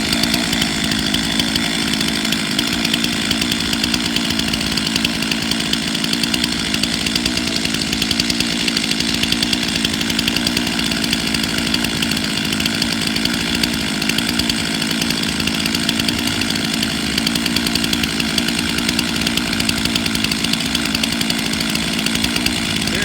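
Stihl two-stroke chainsaw engine running at a steady speed, unrevved.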